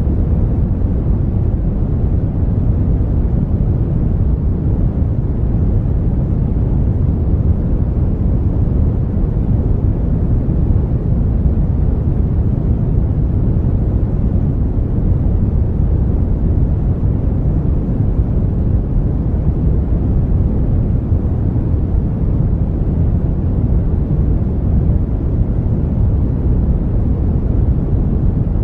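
Brown noise: a steady, even rumbling hiss weighted heavily toward the low end, without any change or break.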